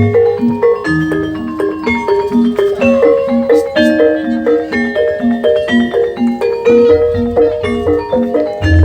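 Live Javanese gamelan music for jaranan dance: bronze metallophones and gongs playing fast, interlocking struck notes over a steady, even pulse, with deep low strokes growing heavier near the end.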